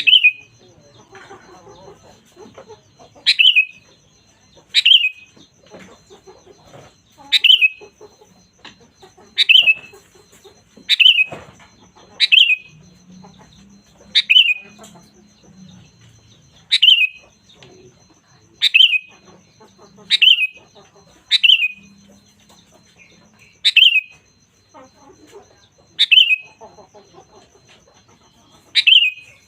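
Sooty-headed bulbul (kutilang) calling over and over, about fifteen short, sharp notes that each slide down in pitch, one every one to two and a half seconds.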